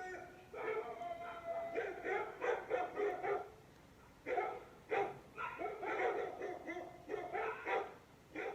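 Dog barking and whining in runs of short, yipping calls, with a pause about four seconds in.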